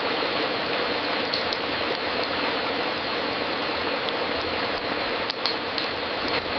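Fireplace crackling: scattered sharp pops over a steady hiss.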